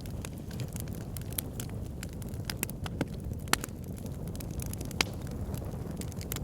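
Backyard fire pit burning with steady crackling and scattered pops, two sharper pops about three and a half and five seconds in, over a steady low rumble.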